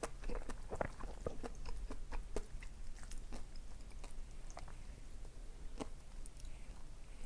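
Close-miked chewing and biting of food: a run of wet mouth clicks and smacks, frequent in the first few seconds and sparser after.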